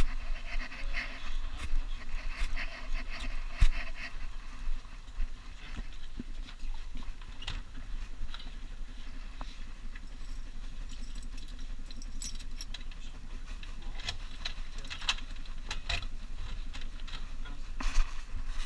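Handling noise from a GoPro strapped to a dog: irregular rattling, rubbing and clicks of the camera mount and jangling collar tags as the dog moves, over a steady low rumble.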